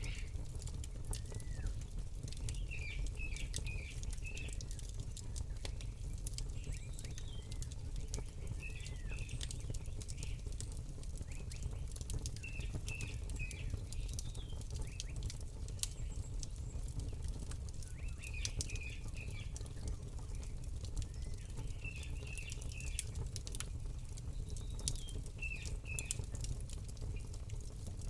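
Campfire crackling with scattered sharp pops over a low steady rumble, while small birds chirp in short bursts every few seconds.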